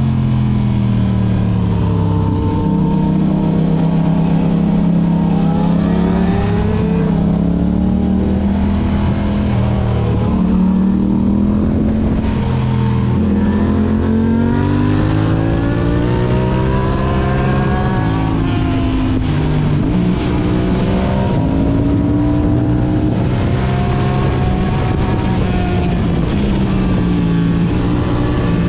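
Yamaha R6 inline-four through an Akrapovic exhaust, heard on board while riding: the engine pitch climbs and drops repeatedly as the rider accelerates, shifts and rolls off for corners.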